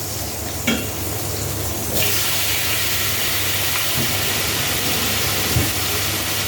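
Sautéing in hot oil: a click of a utensil against the pan under a second in, then the sizzle jumps suddenly to a steady hiss about two seconds in, as chopped tomatoes go into the hot oil with the garlic, ginger and onion.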